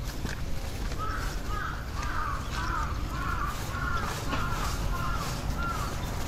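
A bird calling in a quick series of about a dozen short calls, two to three a second, starting about a second in and stopping shortly before the end, over a steady low rumble.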